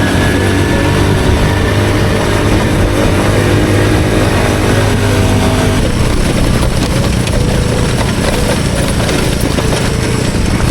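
Honda CT110 postie motorcycle's small single-cylinder four-stroke engine running steadily while riding.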